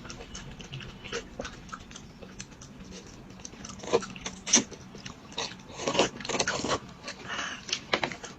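Someone biting and chewing crunchy food: irregular crunches and clicks, with louder bites about four and six seconds in.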